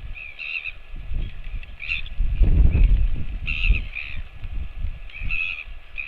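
A crow cawing repeatedly: short, hoarse calls about a second apart, several in a row. A loud low rumbling rises and falls underneath, strongest about halfway through.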